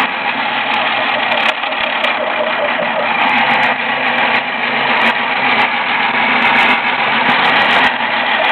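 Small 12-volt electric motor of a drill press running steadily, with a few faint clicks, as it drills holes in frames.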